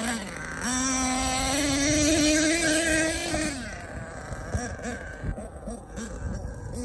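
HPI Savage X 4.6 nitro RC monster truck's small two-stroke glow engine running at high revs, its buzzing note held and slowly climbing for about three seconds, then dropping into several short throttle blips.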